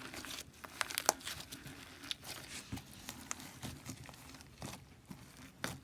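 Stiff beaded slime being squeezed and stretched by hand, giving quiet scattered clicks and crackles as the beads pop and shift.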